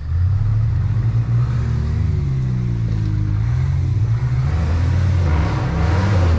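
Off-road rock crawler's engine revving up and down under load as it crawls over rocks, easing off right at the end.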